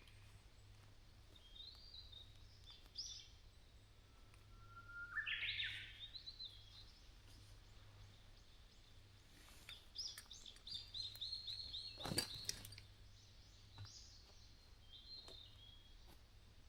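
Wild songbirds calling: short chirped phrases, a rising whistled phrase about five seconds in that is the loudest, and a quick run of repeated notes a little past the middle. A single sharp click falls among those notes, over a faint low hum.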